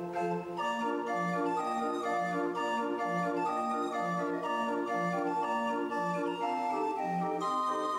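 Instrumental music from a live band: organ-like keyboard chords held and stepping from one to the next, over a lower note that pulses on and off.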